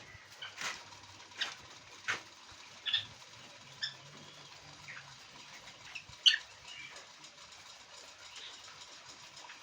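Quail making short chirps, mixed with sharp clicks, scattered irregularly; the loudest call comes about six seconds in.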